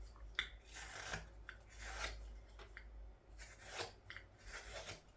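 Carving knife shaving thin curls off a green-wood scoop: a run of short, irregular scraping cuts, about one or two a second, with a sharp click near the start.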